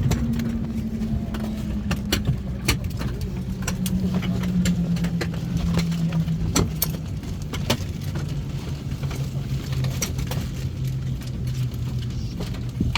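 A vehicle running and slowing, its steady hum falling gradually in pitch, with frequent light clicks and rattles.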